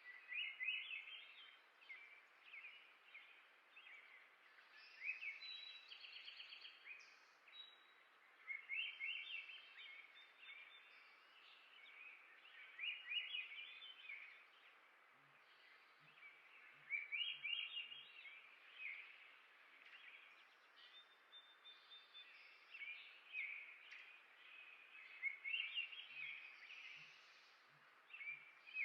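A songbird singing short, fast trilled phrases about every four seconds over a faint steady outdoor hiss.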